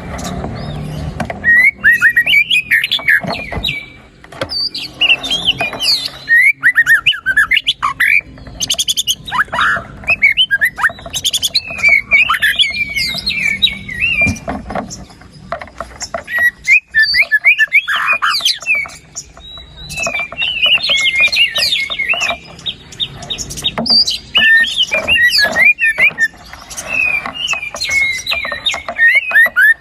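White-rumped shama (murai batu) singing loudly in long runs of rapid, varied whistles, chatters and trills. This is a show of its 'isian', the calls of other birds that it has mimicked. Brief pauses come about 4 and 17 seconds in, and it ends on a fast rattle.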